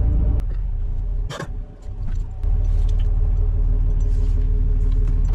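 2005 Dodge Ram 2500's 5.9 Cummins turbodiesel running with its exhaust snapped off right after the turbo, a loud low rumble. The rumble drops away briefly with a sharp click about a second and a half in, then comes back.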